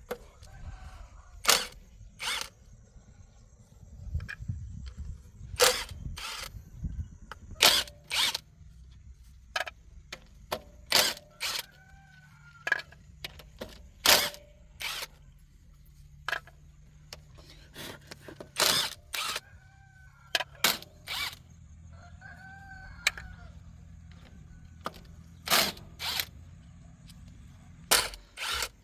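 Irregular sharp metallic clinks and taps, some in quick pairs, from hand tools and metal parts being handled during a machine repair. Chickens cluck faintly in the background a few times.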